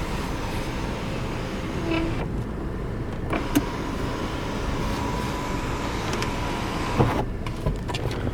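Electric tilt-and-slide glass sunroof motor running for a few seconds with a faint steady whine. A click sounds as it starts and a knock as it stops.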